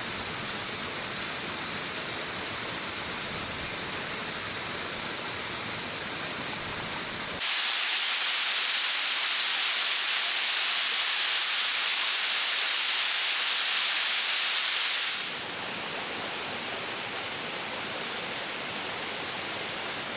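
Waterfall cascading in threads down a rock face: a steady rush of falling water. About seven seconds in it abruptly turns louder and brighter, and about fifteen seconds in it drops back to a softer, fuller rush.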